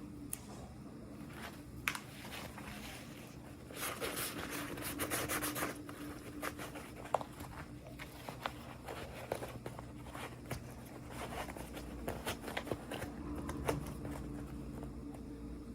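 Hands handling and unwrapping small toy packaging: rubbing and rustling with scattered small clicks and taps, and a denser crinkling burst about four seconds in that lasts around two seconds.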